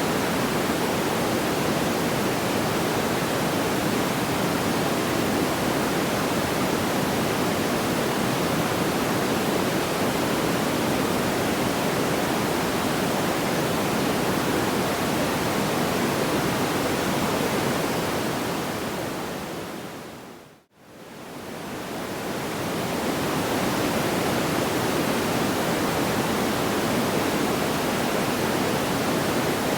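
Steady, even rushing noise with no crackles or pops. It fades down over about two seconds to a moment of silence roughly two-thirds of the way through, then fades back up over a few seconds.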